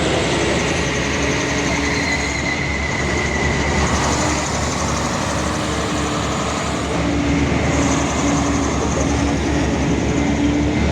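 Heavy diesel truck engine running hard under load on a steep climb, with a steady whine over the engine's pulsing.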